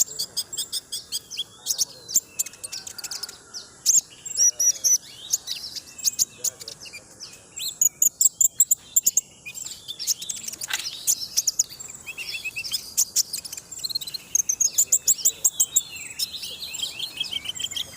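A sunbird singing a fast, high-pitched twittering song of rapid chirps and trills, in quick runs with short breaks.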